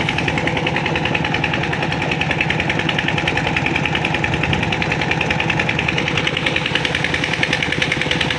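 An old tractor's engine running steadily with a fast, even knocking beat.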